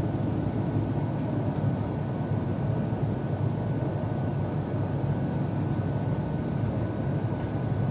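Steady low cabin roar inside an Airbus A350-941 in flight, from the airflow and its two Rolls-Royce Trent XWB-84 turbofans, with a faint steady high tone and a few faint ticks about a second in.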